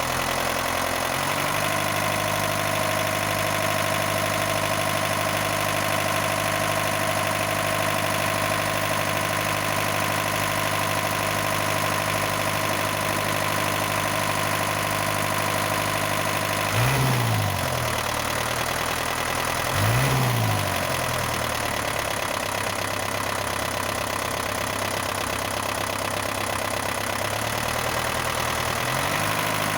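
Engine idling steadily, revved briefly twice about two-thirds of the way through.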